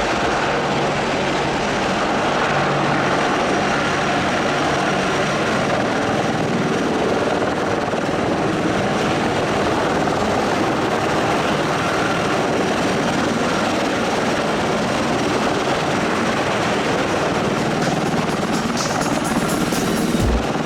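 Military helicopter's turbine and rotor noise, loud and steady, with a low rotor beat becoming plain near the end.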